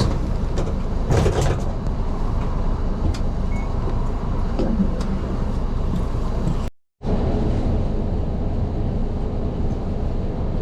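Steady engine and road noise inside a moving Nishitetsu LDG-KV234Q3 city bus, with a few rattles in the cabin about a second in. The sound cuts out for a moment about seven seconds in.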